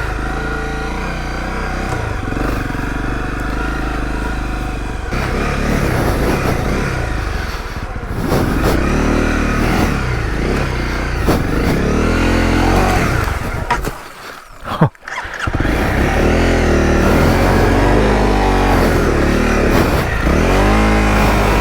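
Honda CRF250L's single-cylinder four-stroke engine running while the bike is ridden off-road, its note rising and falling repeatedly as the throttle is worked. About two thirds through, the sound drops away for a second with one sharp knock, then the engine pulls again.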